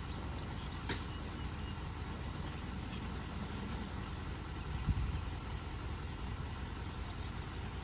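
Diesel tipper truck idling with a steady low rumble, with a sharp click about a second in and a dull thump about five seconds in.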